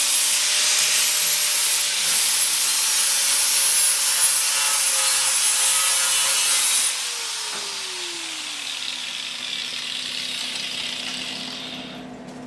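Angle grinder grinding down welds on a sheet-steel pickup bed, a harsh, steady grinding noise over a motor whine. About seven seconds in the grinding stops and the whine falls in pitch as the disc spins down.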